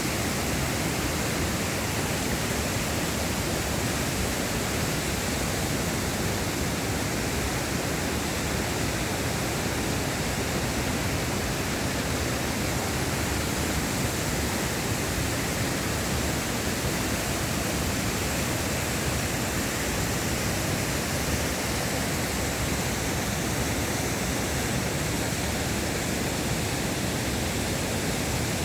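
Mountain valley stream rushing steadily: a dense, unchanging wash of water noise.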